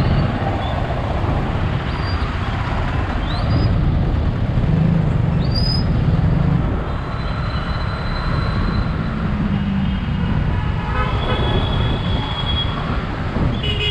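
Busy road traffic: engines running under a steady rumble, with vehicle horns honking repeatedly. Short high toots sound through the first half, and longer held horn blasts come in the second half.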